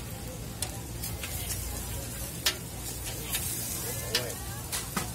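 Shredded-potato hash browns sizzling on a flat-top griddle, with sharp clicks and scrapes of a metal spatula against the griddle plate as they are cut in half; the loudest strike comes about halfway through.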